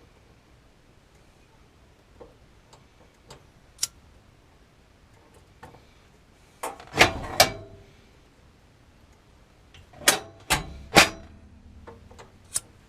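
A series of knocks and clunks from things being handled, with light clicks in between. The loudest knocks come in two clusters, one about halfway through and one shortly after.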